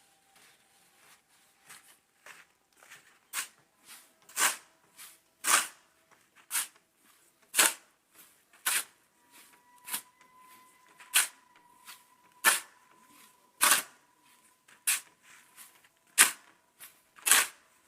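Repeated sharp blows of a hand tool striking a hard surface, about one a second and steadily paced, some hits much louder than others, with lighter ticks in between.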